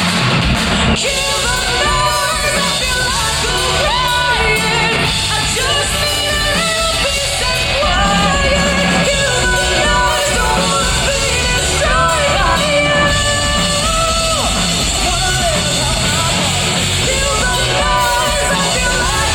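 Live rock band playing loudly, with a singer's held and sliding notes over guitar, bass and drums.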